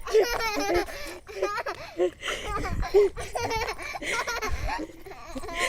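Young child laughing and giggling in short bursts, with a few babbled sounds in between.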